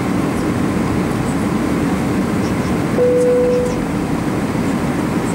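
Steady rumble of engine and airflow noise inside an Airbus A321's passenger cabin. About three seconds in, a single steady tone sounds briefly.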